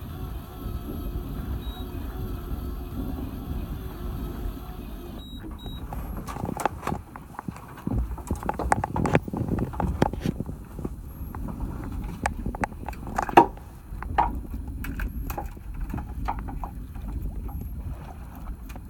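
A steady low engine hum for about five seconds, then an abrupt change to irregular knocks and clatter, with one sharp loud knock about thirteen seconds in.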